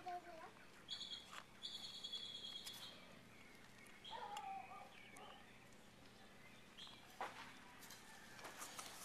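Faint bird calls: high, level whistled notes in the first three seconds, then a lower, bending call about four seconds in. A few faint clicks near the end.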